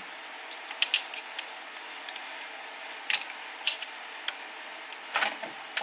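Scattered sharp clicks and light taps of hand tools and small metal parts being handled during chainsaw disassembly, several single ticks and a short cluster near the end, over a faint steady hiss.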